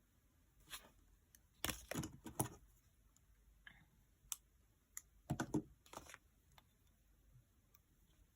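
Paper and stickers being handled: two short clusters of crinkling, tapping and clicking, about two seconds in and again about five seconds in, with a few single ticks between.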